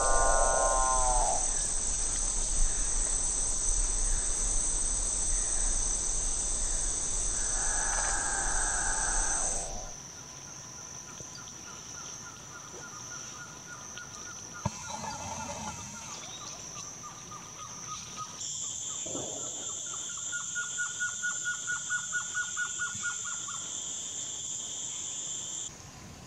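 Rainforest insects keep up a steady high-pitched drone. Over it, near the start and again about eight seconds in, a capuchinbird gives its low, mooing, droning call. Later another bird repeats a pulsing note about four times a second for a few seconds.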